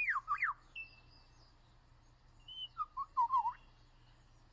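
Superb lyrebird singing: two quick falling whistles at the start, a few thin held whistles, then a brief run of warbling notes about three seconds in.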